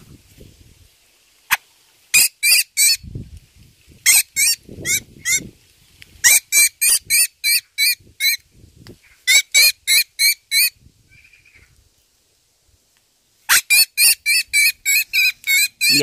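A small songbird tangled in fruit-tree netting and held in a gloved hand gives harsh, rapid distress calls, about four a second, in several bursts with pauses between. Soft rustling of the net and glove comes between the calls.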